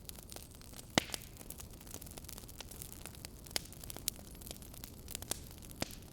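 Mangal fire burning in a fireplace and crackling: sharp, irregular pops over a steady hiss, the loudest about a second in.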